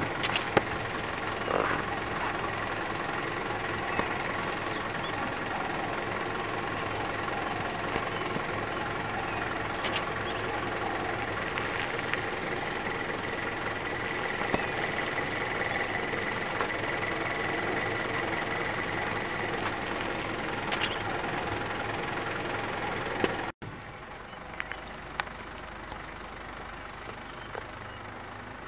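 A vehicle engine idling steadily, with a few sharp clicks over it. About 23 seconds in, the sound cuts suddenly to a quieter engine-and-outdoor background.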